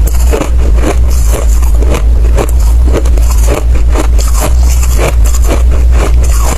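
Close-miked chewing of hard ice, with crunches coming in a steady rhythm of about two to three a second. A steady low rumble runs underneath.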